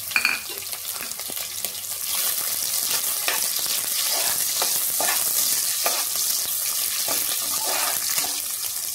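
Green chillies sizzling in hot oil with browned onions in an aluminium pot, stirred with a metal slotted spatula that scrapes against the pot. A brief clink at the start, and the sizzle gets louder about two seconds in.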